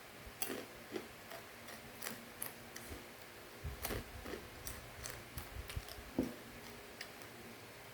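A person chewing a crunchy macaroni snack: irregular crisp crunches and clicks, the loudest one about six seconds in.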